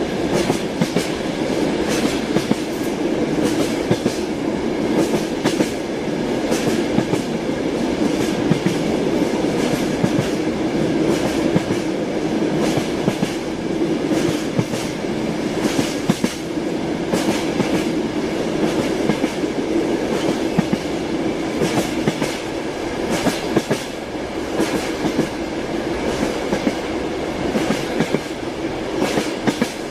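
Train wheels clattering over rail joints, with a steady rumble of the moving train and frequent sharp clicks.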